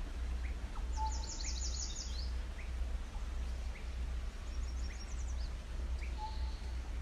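Wild songbirds calling: a rapid high trill about a second in and a fainter one around five seconds, with short rising chirps about once a second. A steady low rumble runs underneath.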